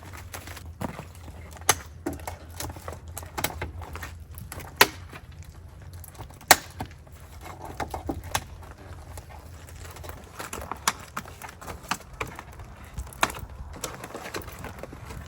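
Irregular sharp clicks and knocks, a few loud, over a low steady hum.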